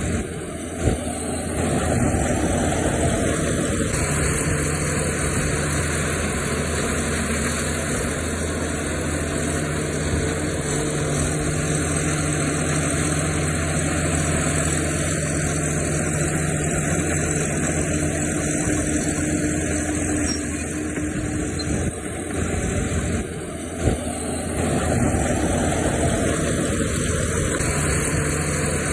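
Diesel engines of land-fill earthmoving machinery, a bulldozer and dump trucks, running steadily with some rises and falls in load. Two sharp knocks stand out, about a second in and again near the end.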